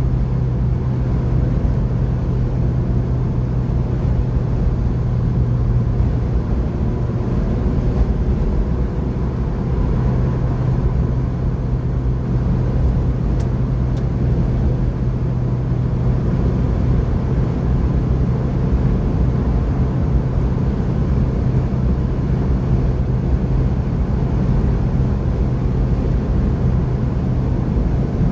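Mazda MX-5's four-cylinder engine running steadily at a constant speed, with tyre and road noise, heard from inside the cabin.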